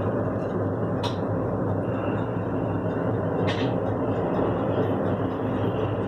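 Wind buffeting an air conditioner unit, a steady low rumble with a hum under it, broken by two short clicks about a second and three and a half seconds in.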